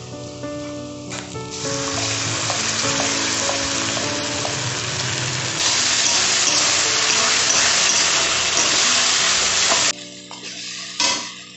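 Onions frying in hot oil in an aluminium kadai, sizzling while stirred with a metal spatula. About five and a half seconds in, a wet masala paste goes into the hot oil and the sizzle gets louder, then cuts off sharply near ten seconds.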